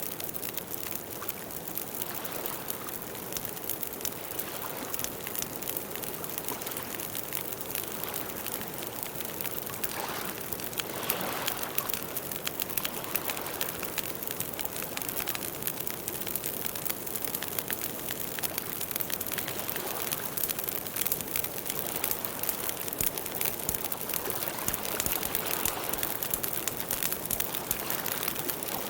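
Campfire burning, wood crackling and popping in a dense, steady patter of small snaps over a soft hiss, a little busier from about a third of the way in.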